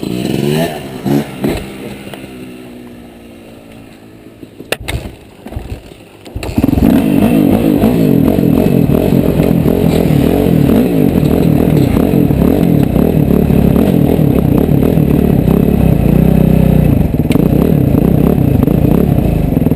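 Motocross bike engine winding down and dying out, then after a few quieter seconds with a sharp click, an engine catches about six and a half seconds in and keeps running loudly and steadily close by.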